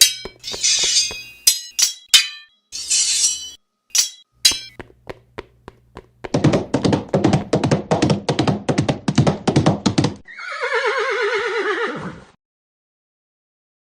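Scattered clicks and short hissing bursts, then a horse's hooves in a fast, even clatter for about four seconds, ending in one long, wavering horse whinny, followed by silence.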